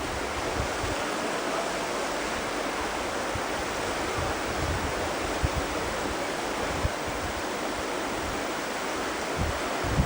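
Steady rush of river water, with brief low buffets of wind on the microphone, the strongest near the end.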